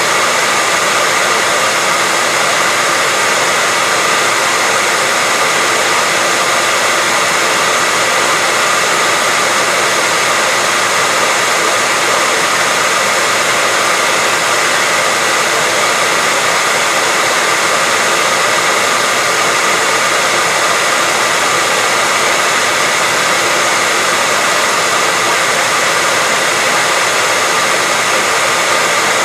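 Hair dryer running steadily: a loud, even rush of blown air with a faint steady whine on top, unchanging throughout.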